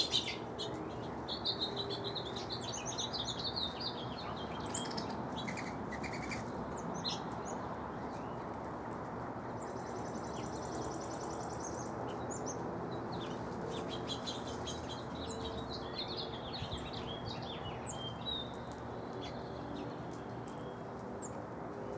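Several wild birds chirping and singing in short, overlapping calls and trills, over a steady low background noise.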